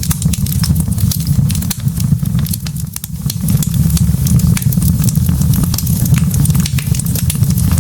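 Log fire burning in a fireplace: a steady low rush of flame with frequent sharp crackles and pops from the burning wood.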